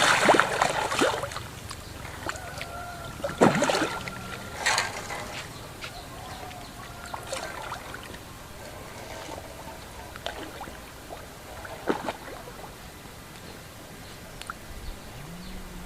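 Water splashing and sloshing: a burst of splashes at the start, two more a few seconds in and one near the end of the first three quarters, over a steady watery background.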